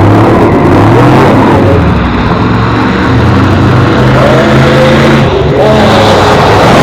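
Car engines revving and running hard as the cars race while dragging boats behind them.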